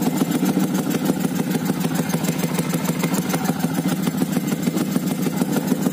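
Yamaha FZ150i motorcycle's single-cylinder four-stroke engine idling steadily through a short aftermarket GL Racing exhaust can, an even, rapid exhaust pulse.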